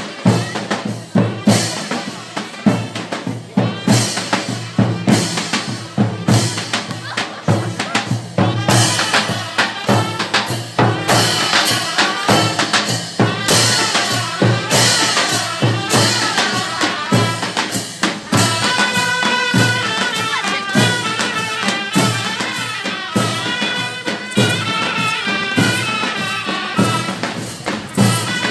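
Mehter band playing a march: big drums beating a steady rhythm with cymbal crashes. About two-thirds of the way through, a high, wavering melody comes in over the drums.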